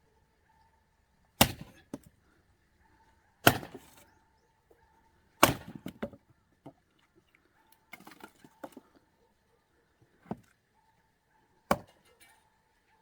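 An axe splitting firewood: three loud, sharp wooden chops about two seconds apart, then lighter knocks and one more sharp chop near the end.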